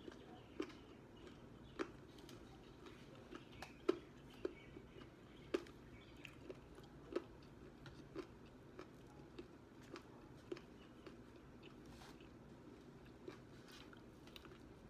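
A person chewing and biting fried chicken wings: irregular short mouth clicks, roughly one or two a second, over a faint steady hum.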